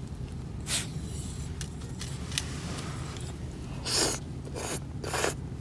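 A person eating hot udon noodles: four short, breathy mouth sounds of slurping and blowing, one about a second in and three close together near the end.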